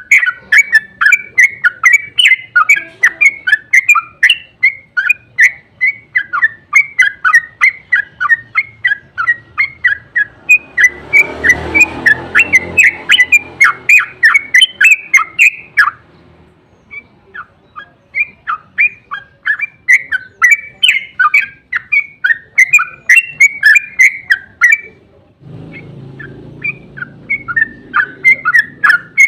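Yellow-vented bulbul (trucuk) singing a long, fast chattering 'ropel' song of short chirping notes, about four or five a second. It breaks off for a second or two about halfway through, then resumes.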